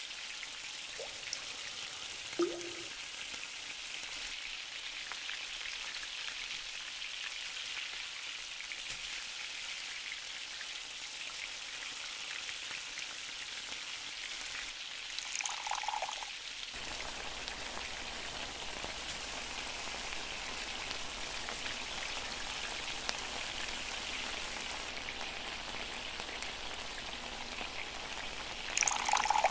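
Onions and peppers sizzling steadily as they fry in oil in a wok, stirred with a spatula. Near the end, a louder rush begins as water is poured into the pan.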